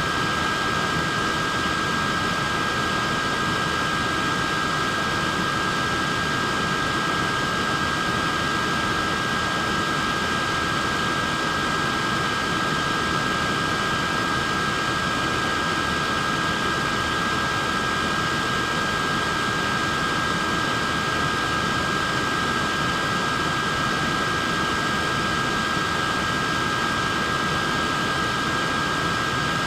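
Portable neck fan running steadily: an even rush of airflow with two steady high-pitched whines on top.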